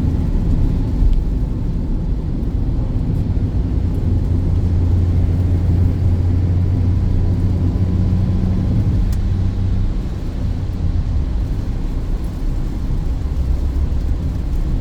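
Inside the cabin of a Peugeot 2008 with the AL4 automatic under way: a steady low rumble of engine and road, with a stronger engine drone from about four seconds in until about ten seconds in.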